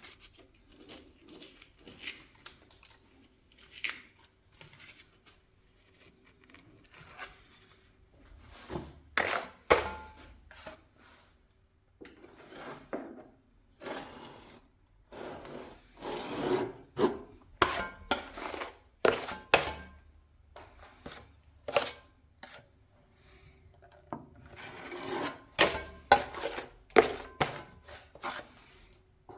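Irregular strokes of a hand tool scraping and rubbing against a hard surface, coming in clusters with short pauses between them. The busiest and loudest stretches fall in the middle and near the end.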